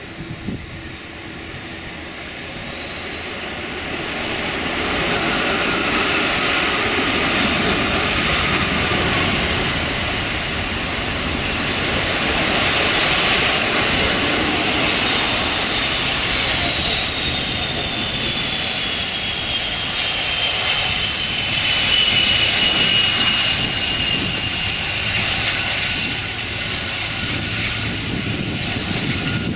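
Boeing 747-400's four Rolls-Royce RB211 turbofan engines on a landing pass, a steady jet noise that builds over the first few seconds and then holds loud. Partway through, a high engine whine slides slowly down in pitch as the jet goes by.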